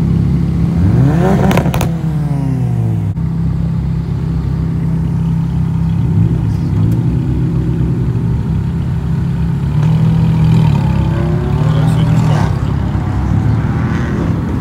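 Mid-engined Ferrari V8s, an F430 Scuderia and a 360 Challenge Stradale, driving slowly past at low revs. The engine note rises in pitch and falls back about a second in, and again around ten to twelve seconds in.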